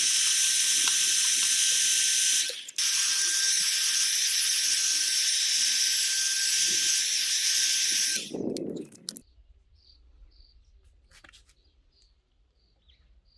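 Heat gun running with a loud steady hiss and a fan whine. It cuts out for a moment about two and a half seconds in and is switched off about eight seconds in. Faint, regular small ticks follow, about two or three a second.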